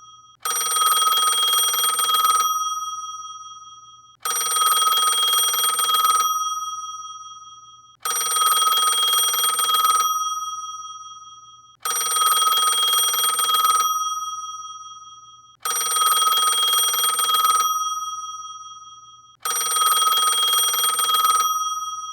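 Alarm tone of a ringing telephone-style bell: six rings about two seconds each, each starting sharply and fading away, repeating about every four seconds.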